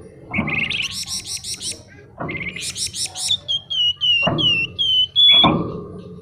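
Flamboyan songbird singing: two rapid, buzzy high trills, then a run of about six short whistled notes, each falling slightly in pitch, with a few harsh notes mixed in.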